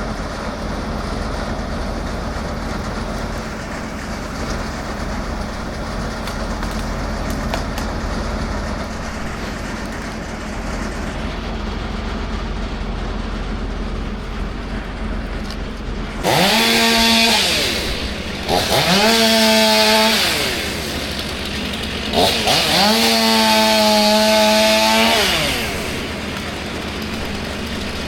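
Steady engine hum for the first half. From just past halfway, a two-stroke chainsaw is revved up hard three times, each burst rising in pitch, holding a few seconds, then falling back to idle.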